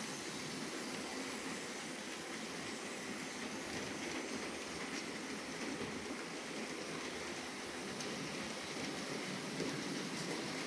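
H0-scale model trains running on the layout track: a steady whirr of small electric locomotive motors and wheels rolling over the rails, with a few faint clicks.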